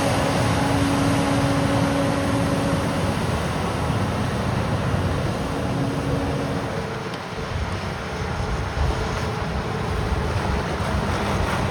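Heavy diesel snow-removal machinery running: a Larue D60 snow blower working with a wheel loader gives a steady engine drone with a held hum. About seven seconds in the hum stops and the sound changes to the engines of motor graders.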